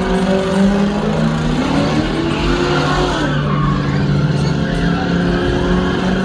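Car engine held at high revs with tires squealing, as in a burnout at a car meet; the engine pitch wavers up and down over a steady tire and exhaust noise.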